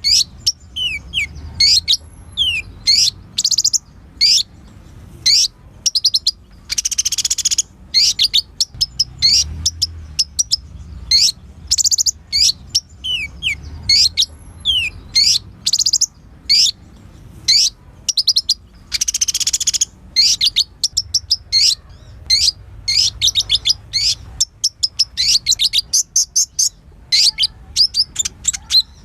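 A sunbird (the 'kolibri ninja') singing a rapid, varied string of sharp high chirps and quick sweeping notes, broken twice by a longer buzzy trill. The chirps come faster and closer together near the end.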